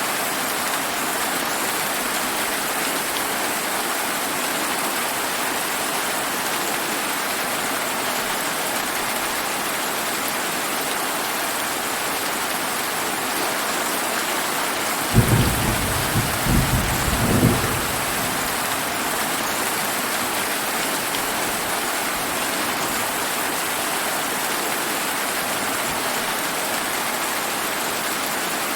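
Steady hiss of heavy summer rain. About halfway through, a short low thunder rumble starts suddenly and rolls in a few pulses for about three seconds.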